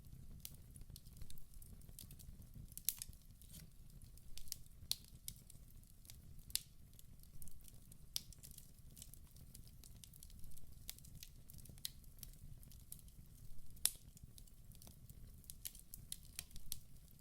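Wood fire burning in a fireplace: irregular sharp crackles and pops over a steady low rumble of the flames, the loudest pops about three seconds in and near fourteen seconds.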